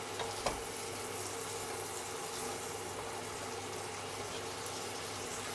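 Electric kettle boiling, a steady rushing bubble, over the steady hum of a kitchen exhaust fan and chicken and onion frying in a pan. A couple of light clicks in the first half second.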